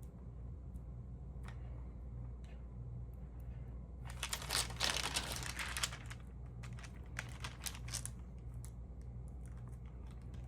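Paper and plastic crinkling and rustling as stamp album pages are handled and turned, loudest about four to six seconds in, with scattered light clicks, over a low steady hum.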